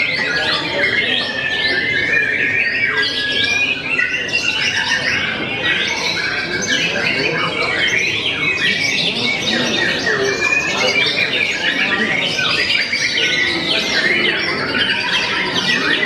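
White-rumped shama (murai batu) singing nonstop: a dense, unbroken run of rapid chattering and whistled notes with no pauses.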